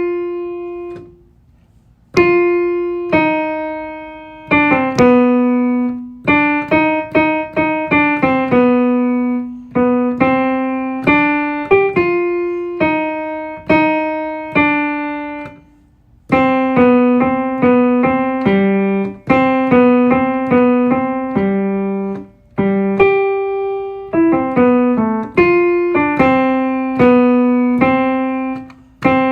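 Piano playing a vocal part's melody one note at a time, each note struck and dying away, with short rests between phrases about a second in, near the middle and a few seconds later.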